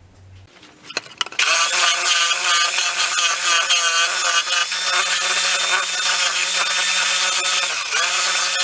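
Electric jigsaw cutting wood to widen the blade slot in a saw table top. It starts about a second in and runs steadily with a wavering motor whine over the rasp of the blade, dipping briefly near the end.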